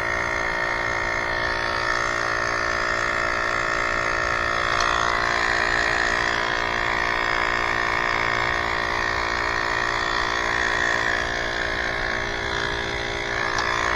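Small electric air pump running with a steady buzz while an inner tube is inflated.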